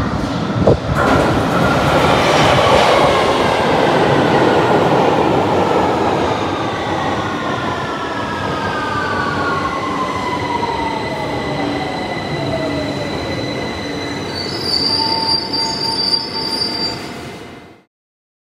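A train running on rails, with a whine that falls slowly in pitch over several seconds and high steady wheel squeal near the end; the sound cuts off abruptly just before the end.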